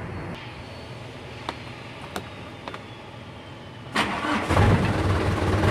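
Isuzu Panther diesel engine started up about four seconds in, then running steadily, after a few faint clicks.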